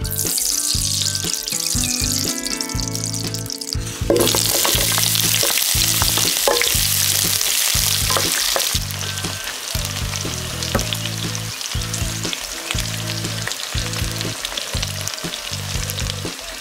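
Chopped onion, ginger, garlic and leek sizzling as they fry in hot oil in an electric skillet, with some stirring by a wooden spatula; the sizzle gets louder about four seconds in and eases a little around nine seconds. Soft background music with low notes underneath.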